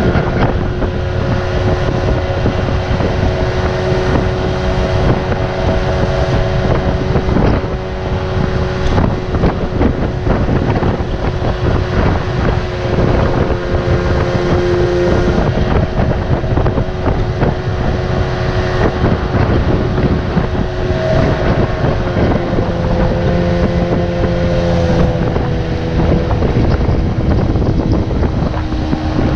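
Radio-controlled boat's brushless electric motor running with a steady whine that shifts slightly in pitch now and then, under heavy wind noise on the microphone.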